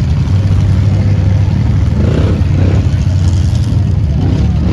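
Vehicle engine running steadily at low revs, a loud, even low hum.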